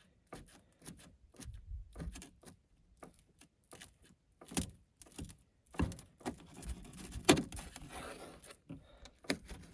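Scattered light knocks and clatter from handling a freshly baked pizza and kitchen utensils, with a longer scraping stretch from about six seconds in that fits cutting through the crispy crust.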